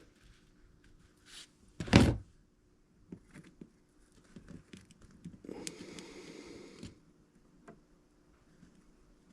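Small tools and parts handled on a workbench: a single thunk about two seconds in, scattered light clicks and taps, and a stretch of rustling about halfway through.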